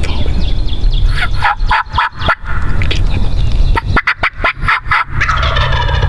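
Eastern wild turkey gobbler gobbling twice: a rapid, rattling call about a second in and another about four seconds in.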